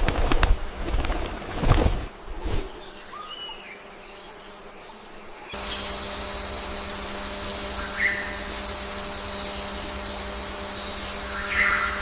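Bird wing flaps and rustling for the first couple of seconds, then a few short bird chirps. About five and a half seconds in, a steady hum with a faint high whine starts abruptly under the chirps.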